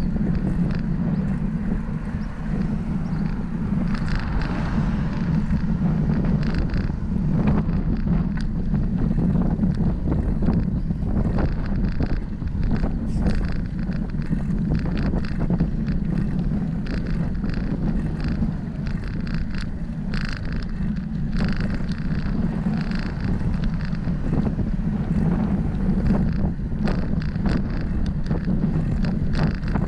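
Wind buffeting the microphone of a camera on a moving bicycle: a steady, loud, low rumble, with occasional short clicks and rattles throughout.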